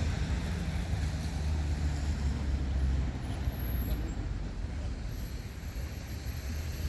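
A low, steady outdoor rumble that eases after about three seconds.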